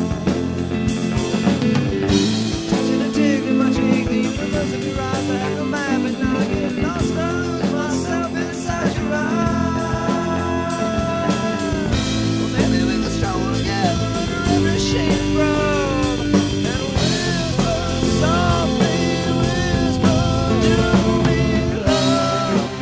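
Psychedelic stoner rock recording with electric guitar, bass and a drum kit, a melody line bending in pitch over them, and cymbal crashes at about two, twelve and twenty-two seconds in.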